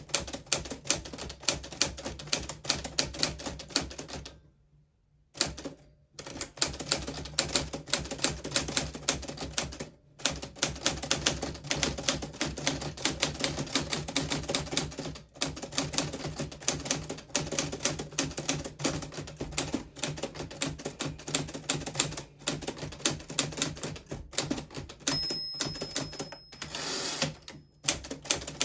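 A 1940s Smith Corona Silent manual typewriter being typed on steadily: a fast, uneven stream of keystroke clacks, with a pause of about a second roughly four seconds in.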